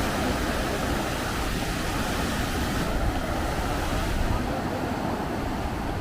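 Steady wash of sea surf and wind, with wind buffeting the microphone. The hiss thins out about three seconds in.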